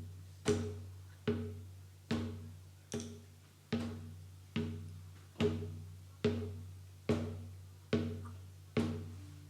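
Slow, even drum beat, about one stroke every 0.8 seconds, each stroke ringing out with a low tone.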